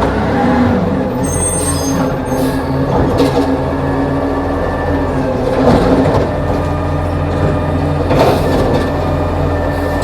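Garbage truck's diesel engine running steadily, with a few short clanks and knocks as it works a pickup.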